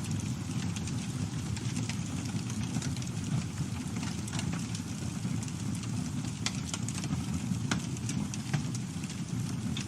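Campfire burning, with a steady low rumble of flames and frequent sharp crackles and pops from the burning wood.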